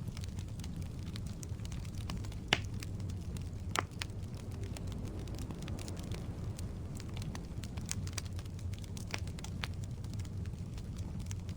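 Wood fire burning in a fireplace: a steady low rumble of flames with scattered crackles, and two louder pops from the burning logs about two and a half and almost four seconds in.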